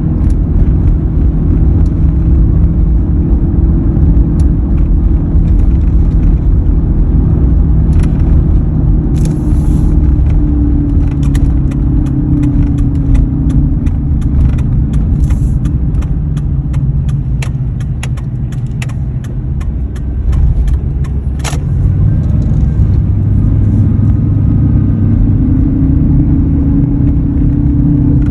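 2003 Ford F-150 on the move: loud road and drivetrain rumble with a steady hum whose pitch drifts down and later back up. Scattered light clicks and rattles run through it. The hum is the unexplained noise the owner is chasing, which he says could be a number of things.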